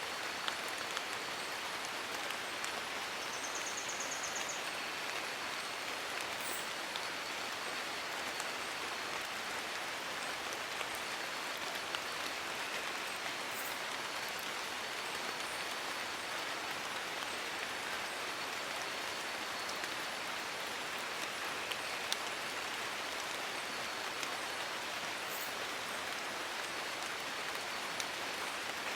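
Steady rain pattering on forest leaves, with occasional sharper drip ticks.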